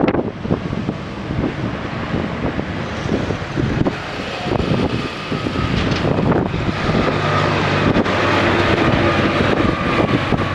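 SANY SAG160-5 motor grader's diesel engine running as the machine levels soil, with wind buffeting the microphone. A steady engine hum comes through more clearly about seven seconds in.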